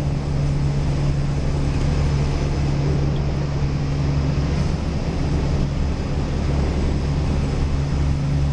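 Heavy machinery running with a steady low drone.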